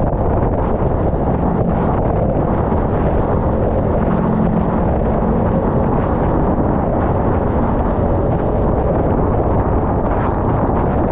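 Steady wind rush buffeting the microphone while riding a Kawasaki Ninja 400 parallel-twin motorcycle at speed. The engine's steady note runs faintly beneath it.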